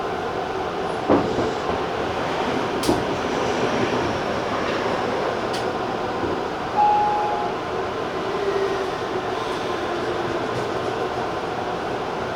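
Electric commuter train heard from inside: a steady running noise with a few sharp clicks, and a short tone with a brief rise in level about seven seconds in.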